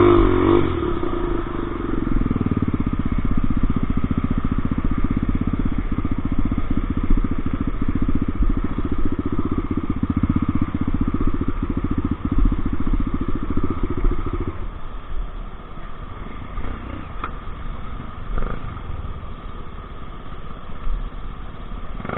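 Motorcycle engine running steadily under way on a dirt road; about fifteen seconds in its sound drops off and grows quieter.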